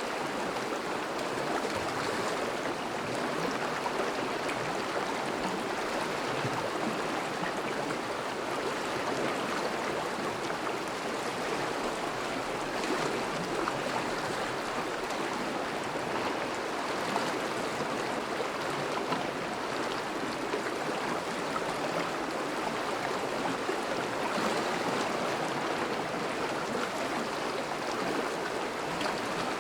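A partly thawed river flowing and rushing steadily over and around melting ice.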